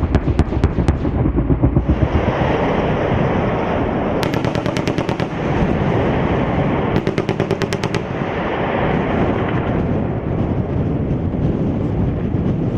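Bursts of automatic cannon fire, plausibly an AH-64 Apache's 30 mm chain gun, over a steady helicopter rumble: a string of evenly spaced shots at the start, then two rapid bursts of about a second each, about four and seven seconds in.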